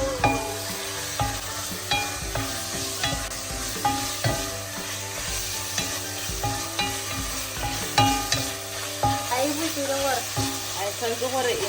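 Beef for a beef bourguignon frying in hot oil in a pot, sizzling steadily while a utensil stirs it and knocks against the pan now and then.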